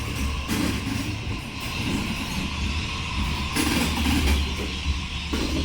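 Low, steady rumble of an electric passenger train moving at a station, with some noise rising and falling over it.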